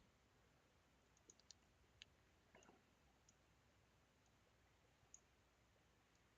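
Near silence broken by a few faint computer mouse clicks, about five, spread out irregularly.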